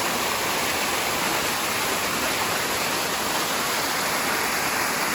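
Rushing water from a waterfall: a steady, even roar of falling water with no break.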